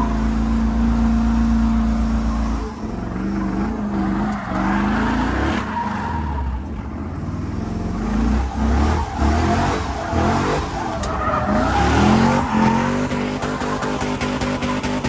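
Truck engine revving hard and holding high revs while the tyres spin and screech in a burnout, the engine pitch dropping and rising again several times.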